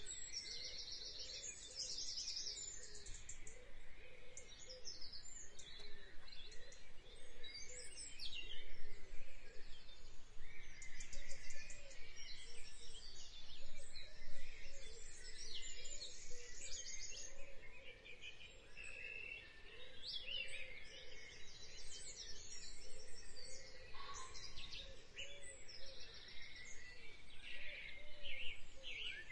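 Many birds chirping and singing, with quick high trills and short calls overlapping, over a steady background hiss.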